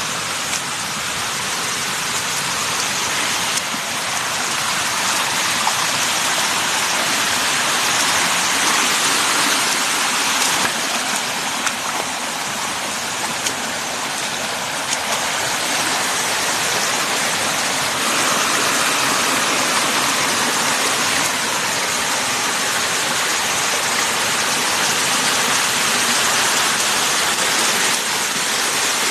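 Steady rushing water, an even hiss without breaks.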